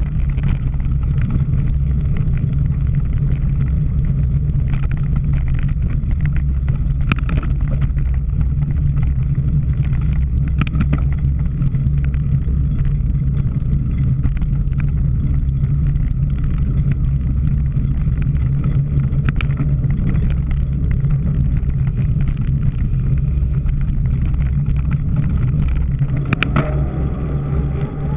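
Steady, loud wind rumble on the microphone of a camera riding along on a cyclocross bike during a race, with occasional clicks and rattles from the bike.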